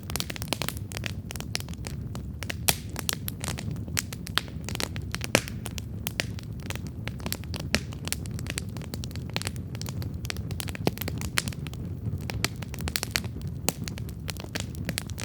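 Wood campfire burning and crackling: frequent irregular sharp pops and snaps over a steady low rumble of the flames.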